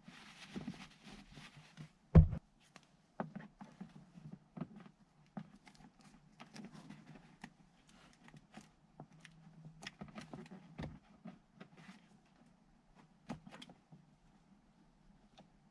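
Scattered clicks, taps and rustling of parts being handled, with one loud thump about two seconds in.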